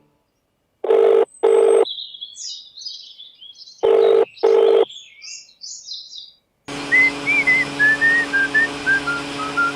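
Two short beeps, then birds chirping, then the same double beep again. About seven seconds in, a whistled tune starts over a steady backing of music.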